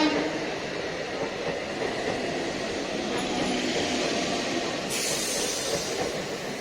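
Electric multiple-unit local train running on the track, a steady rumble and rattle of wheels on rail. About five seconds in, a loud hiss joins it.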